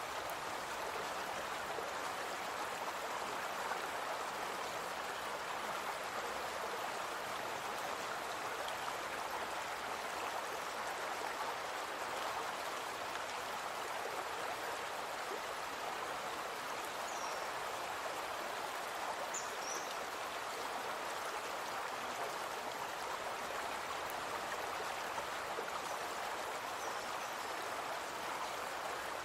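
Brook water flowing in a steady, even rush, with a few faint high chirps about two-thirds of the way through and near the end.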